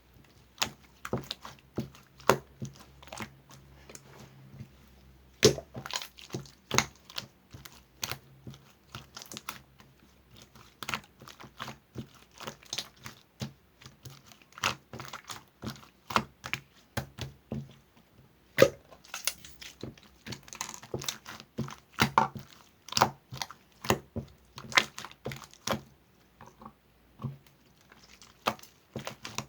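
A rapid, irregular series of small clicks, taps and crackles, some sharper snaps standing out among them.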